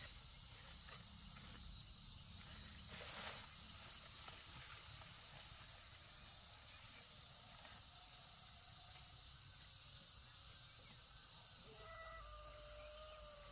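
Quiet forest ambience with a steady high-pitched insect drone, a brief rustle about three seconds in, and a faint drawn-out tonal call near the end.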